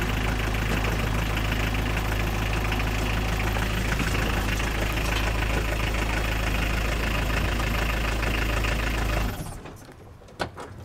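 Car engine idling steadily through a newly fitted centre exhaust silencer, run to heat the exhaust so the sealant around the clamp coupling hardens. The engine stops about nine seconds in, followed by a few short clicks.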